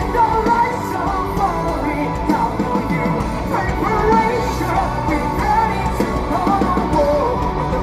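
Rock band playing live, loud and continuous, with a sung voice over the band.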